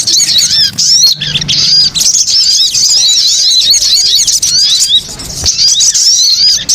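Lure recording of sogon (sogok ontong) birds calling in a noisy chorus: many rapid, high, overlapping chirps run on without a break.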